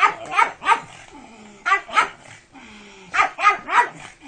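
A dog barking in quick groups: three barks, then two, then three more near the end.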